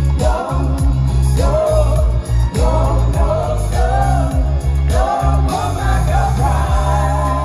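Live band playing a pop song, with singing over a heavy bass and drum beat; near the end the beat stops and a held chord rings on.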